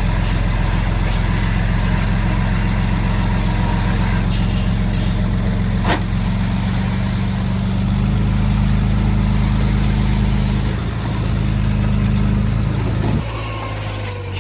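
A heavy-equipment diesel engine running steadily under load, then dropping to a lower, quieter idle about thirteen seconds in. A single sharp click comes about six seconds in.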